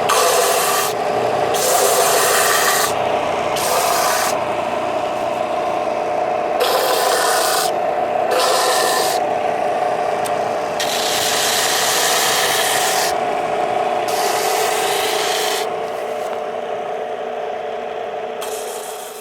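Electric sander running with a steady hum, its pad rasping on a wooden block cut from a 4x4 post in stretches of one to two seconds. The sound dies away near the end.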